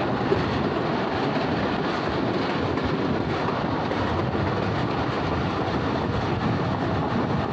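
Thal Express passenger train running along the track, heard from a carriage: a steady rumble and rattle of wheels on the rails.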